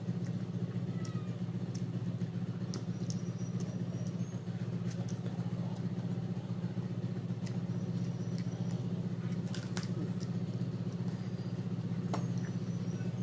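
A steady low hum runs under faint, scattered clicks and smacks of chewing and fingers handling food, as a man eats stir-fried water spinach and rice by hand. The hum is louder than the eating sounds.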